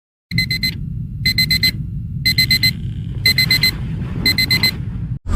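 Digital alarm clock beeping its wake-up alarm in quick groups of four, one group about every second, over a low rumble; it cuts off abruptly near the end.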